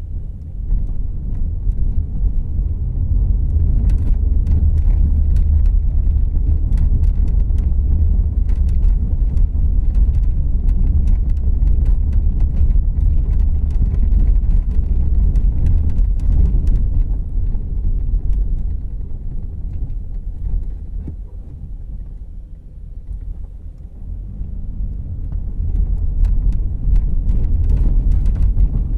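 Cabin sound of a 2014 Volkswagen Jetta Clásico being driven: a steady low rumble of engine and road, with scattered small knocks and rattles. The rumble eases for a few seconds past the middle, then builds again.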